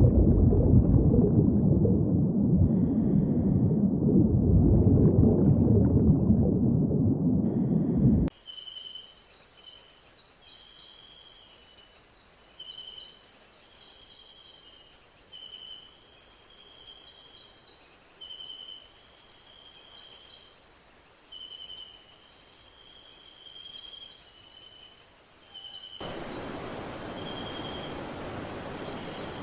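Loud low rumbling noise for about eight seconds, then a sudden cut to a steady high-pitched insect drone, like crickets, with short lower chirps repeating roughly once a second; near the end a soft hiss joins in.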